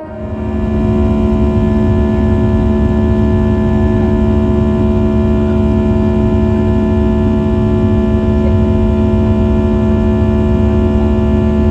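Jet aircraft engine noise: a steady low rumble with several held whining tones over it, fading in during the first second and then holding level.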